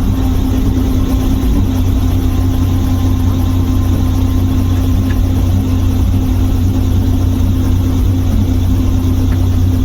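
Helicopter engine and rotor running steadily: a loud, constant drone with an even hum and no change in pitch.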